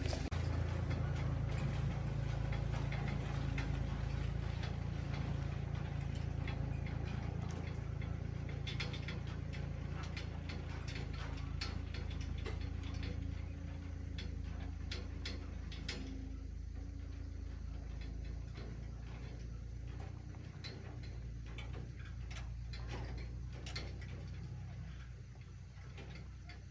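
An engine runs steadily at low speed, with scattered clicks and light knocks over it. The hum fades a little near the end.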